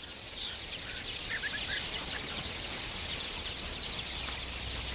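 A large flock of rosy starlings calling together at a breeding colony: a dense, steady chatter of many overlapping high calls, with a few clearer chirps standing out in the first two seconds.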